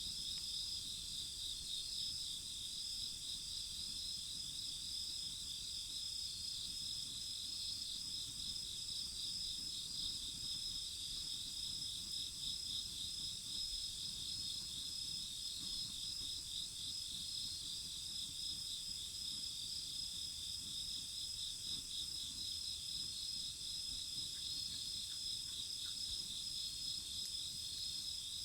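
Chorus of crickets and other singing insects: several steady high trills overlapping without a break, one of them pulsing rapidly.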